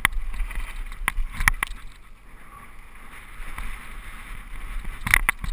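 Mountain bike rolling down a dirt trail: a steady rush of tyre and wind noise, broken by sharp knocks and rattles as the bike hits bumps, at the start, around one and a half seconds in and twice near the end.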